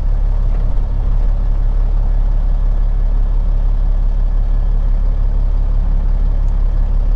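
Peterbilt 379 semi truck's diesel engine running with a steady low drone.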